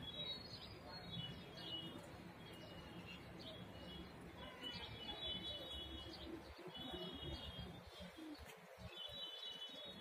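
Faint bird calls: short series of high notes stepping down in pitch, repeated every couple of seconds, over a low background rumble.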